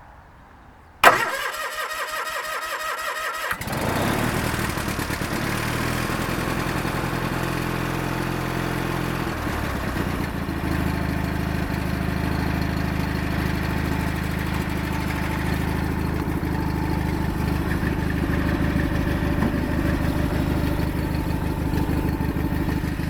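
Craftsman GT6000 garden tractor's engine on a cold start: the starter cranks it in a quick even pulse for about two and a half seconds, then the engine catches about three and a half seconds in and settles into steady running.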